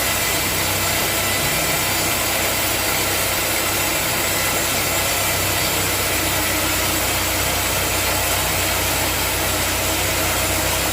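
A sawmill's engine running steadily, with an even hiss over a low, constant drone.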